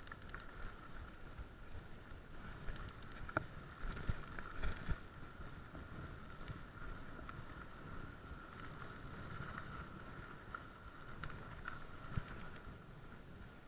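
Bicycle being ridden on a rough track: steady rumble with a constant high hum, and scattered knocks and rattles.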